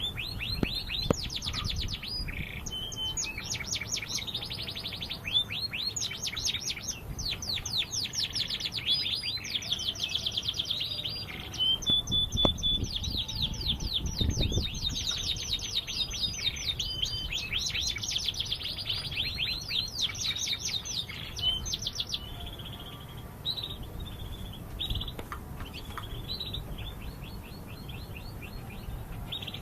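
Canary singing a long run of rapid trills and chirps; the song is dense until about two-thirds of the way through, then thins to shorter, fainter phrases.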